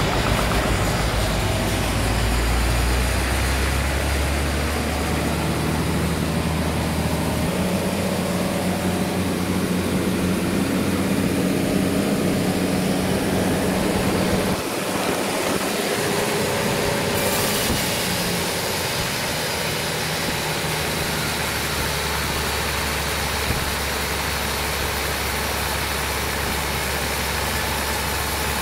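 A heavy engine running at changing speed. Its note climbs over the first several seconds, drops suddenly about halfway through, then settles into a steady low running.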